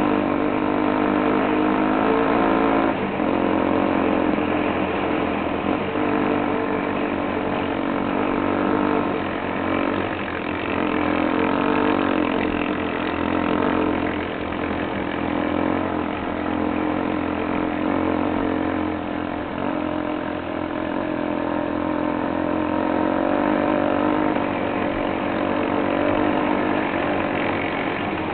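Motorcycle engines running steadily, their pitch wavering a little as the throttles shift.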